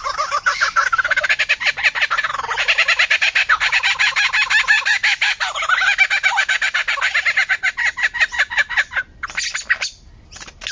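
A bird calling in a fast, unbroken series of short harsh notes, many to the second. The series stops about nine seconds in, followed by one short burst and a brief lull.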